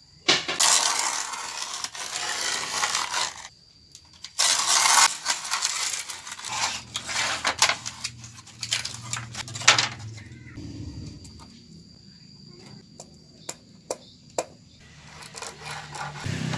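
Two long bursts of scraping noise, then a run of sharp clicks and clattering knocks.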